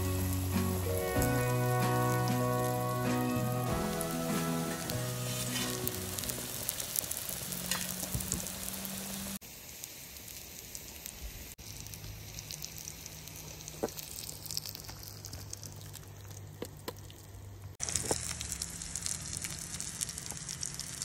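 Food frying in hot oil, a steady sizzle, with background music over the first few seconds. The level jumps abruptly three times.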